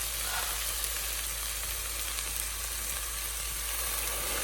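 Onions frying in olive oil in a hot pan: a steady sizzling hiss.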